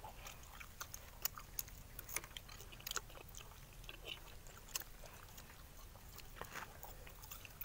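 Faint chewing of grilled pork intestine eaten by hand, heard as scattered short mouth clicks and ticks.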